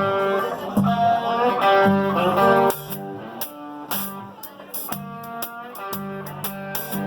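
Blues band playing live, led by a guitar riff of repeated notes. Loud for the first few seconds, then softer, with short sharp ticks in a steady rhythm above it.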